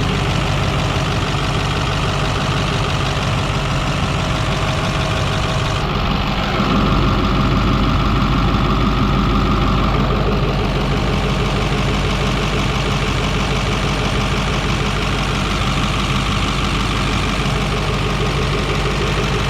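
A vehicle engine running steadily, its sound shifting about six seconds in.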